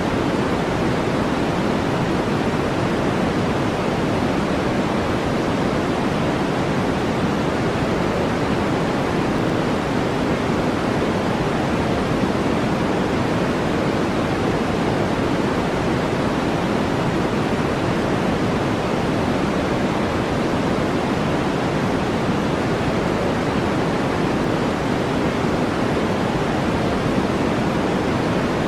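Steady brown noise: an even, unchanging rush weighted toward the low end.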